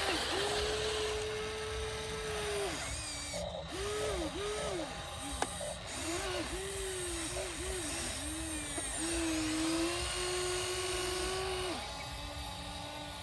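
Small electric motors and gearboxes of remote-control construction toys whining, starting and stopping in a string of short runs whose pitch rises and falls, then running steadier for a few seconds near the end.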